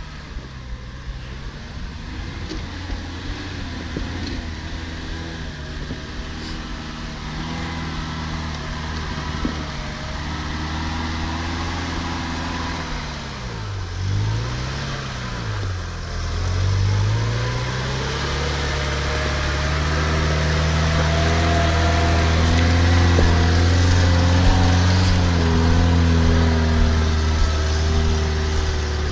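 Off-road 4x4's engine working under load. Its revs sag and recover twice midway, then climb and hold higher toward the end.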